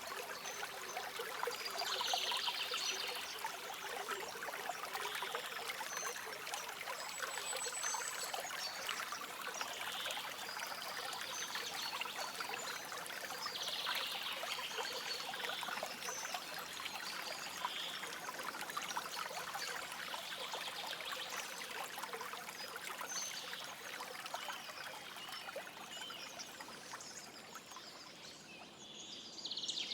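Shallow forest stream trickling and babbling steadily, with a few short bird calls now and then.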